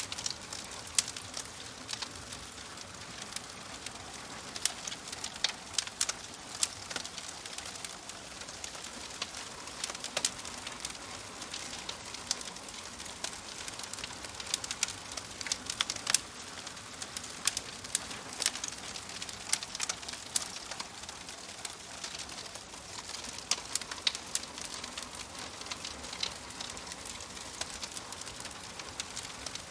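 Wood fire crackling in a fireplace: a steady soft hiss with sharp, irregular pops and snaps several times a second.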